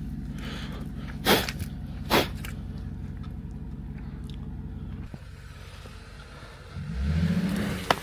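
Jeep Wrangler engine running at a steady idle, with two sharp knocks in the first few seconds. Near the end the engine is revved briefly as the Jeep pulls away.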